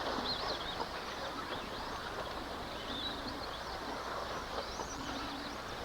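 Electric RC off-road trucks racing: a steady wash of noise with faint high-pitched motor whines rising and falling as the trucks accelerate and slow around the track.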